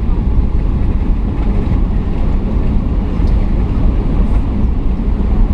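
Steady low rumble inside the cabin of a Boeing 757 on its landing at LAX.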